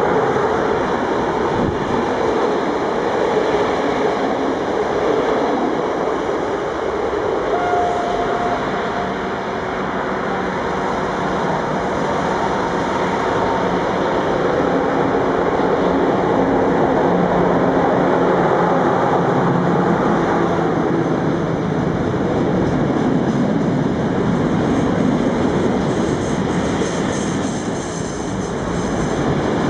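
Electric-hauled passenger train rushing past close by on the rails, followed by a freight train approaching and its loaded container wagons rolling past, with more wheel clatter and rattle near the end.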